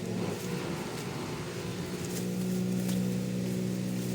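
A small engine or motor running steadily with a low hum, growing louder about two seconds in.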